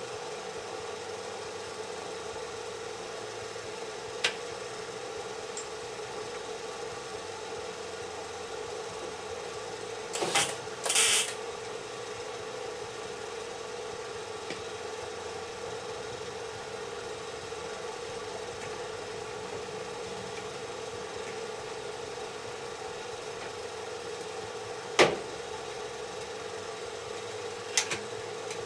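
A steady hum runs throughout, with a few sharp knocks, one about four seconds in and another near the end, and a short clatter about ten seconds in.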